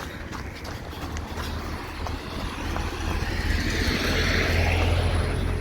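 A road vehicle passing close by, its tyre and engine noise swelling to a peak about four to five seconds in and then fading, over the steady rhythm of a runner's footsteps.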